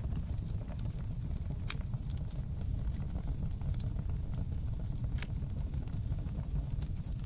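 Wood fire in a stone fireplace: a steady low rumble of burning flames with frequent small crackles and pops, and two louder snaps, one near two seconds in and one about five seconds in.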